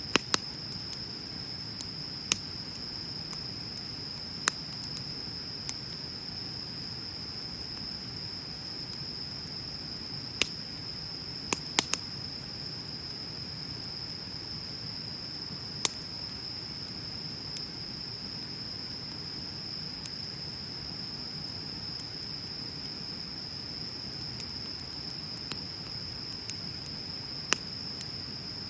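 Wood bonfire burning with a low steady rustle and sharp crackling pops every few seconds, a few in quick succession near the middle. A steady high-pitched insect trill, likely crickets, runs underneath.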